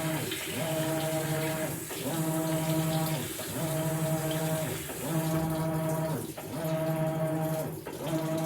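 Maytag Bravos XL top-loading washing machine agitating a load of bedding: the wash motor hums steadily for about a second and a half, then dips and rises in pitch as it reverses, over and over, about every one and a half seconds, with water sloshing in the tub.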